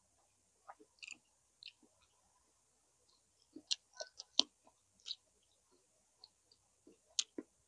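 A person eating close to the microphone: scattered soft mouth clicks and smacks of chewing. A quick run of clicks comes about three and a half to four and a half seconds in, and a couple more near the end.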